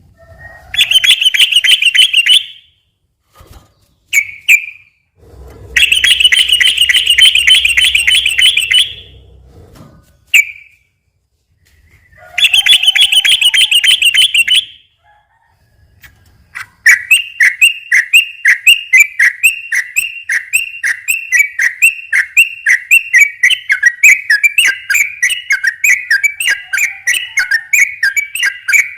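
Yellow-vented bulbul (trucukan) singing its rolling 'ropel' song. Three fast, rattling trills of two to three seconds each come with short calls between them, and from about two-thirds of the way in a long unbroken run of quick repeated notes follows, about three to four a second.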